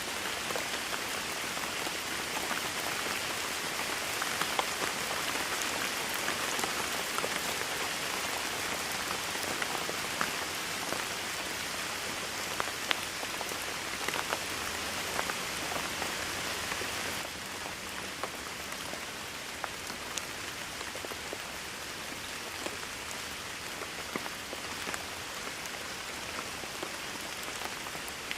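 Rain falling steadily: a dense, even hiss with many individual drops ticking through it. The level drops a little about two thirds of the way through.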